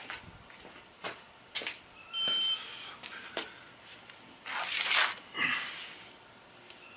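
Small metal clicks and clinks of motorcycle engine-cover bolts and tools being handled, with a short metallic ping a little after two seconds and a louder scraping rustle near five seconds.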